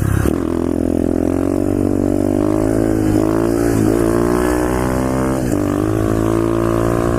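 SSR pit bike's single-cylinder four-stroke engine running steadily while riding, its pitch dipping briefly three times, about three, four and five and a half seconds in, and coming back up.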